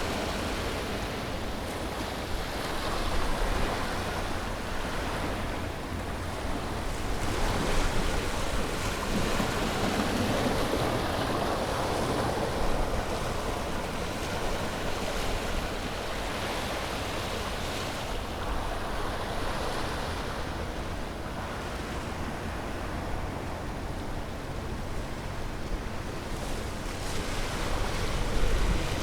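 Ocean waves breaking and washing on a shore, a continuous surf wash that swells and eases every few seconds, with a low rumble and some wind noise on the microphone.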